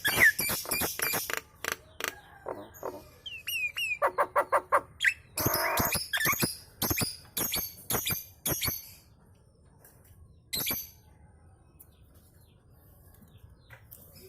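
Nias hill myna chattering: a fast run of harsh, clipped calls mixed with a few short downward whistles. It goes quiet after about nine seconds apart from one more call.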